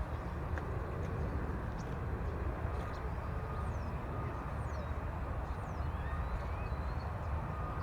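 Steady low rumble of distant jet aircraft engines, with a few faint high chirps above it.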